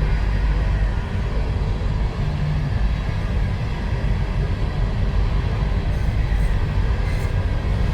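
Norfolk Southern freight train of empty mine cars rolling past with a steady low rumble, and a few faint clicks near the end.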